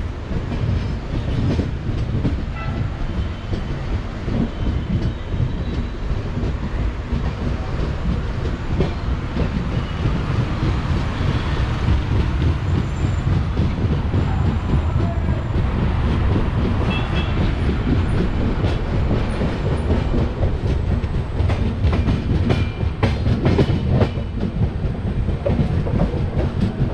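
LHB passenger coach running on the track, heard from an open doorway: a steady wheel-and-rail rumble with a constant clatter of wheels over rail joints. It grows slightly louder as it goes, and about halfway through it crosses a steel girder bridge.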